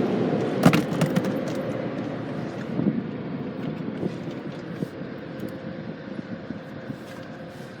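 Express tunnel car wash equipment heard from inside the car: a steady rushing noise that fades gradually as the car moves toward the tunnel exit, with a few sharp knocks about a second in.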